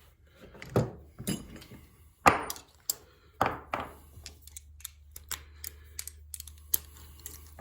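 A run of sharp knocks and clinks from metal headlight parts and hand tools being handled and fitted. The loudest knock comes about two seconds in, and lighter clicks follow.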